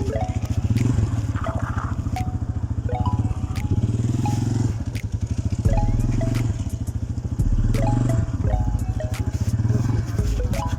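Italika TC-250 single-cylinder motorcycle engine running under way, its rapid firing pulses steady, with the engine note shifting as the throttle changes about halfway through and again near 7 seconds. Sharp clicks sound over it throughout.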